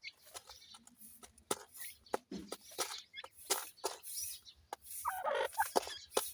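Teetar (francolin) chicks calling in short, quick notes, bunched together about five seconds in, amid many sharp clicking taps.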